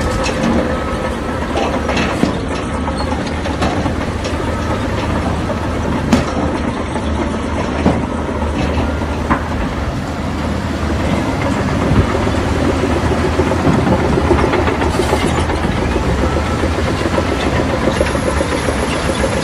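Heavy diesel earthmoving machinery running steadily, with scattered knocks and clatter. It gets somewhat louder about twelve seconds in. A reversing alarm beeps in the first few seconds.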